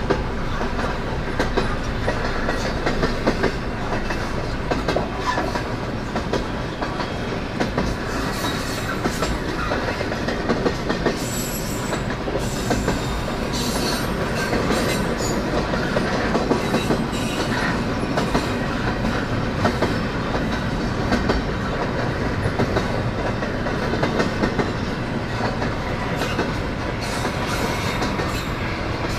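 CN freight train's cars rolling past steadily, wheels clicking over the rail joints, with short high-pitched wheel noise a few times in the middle.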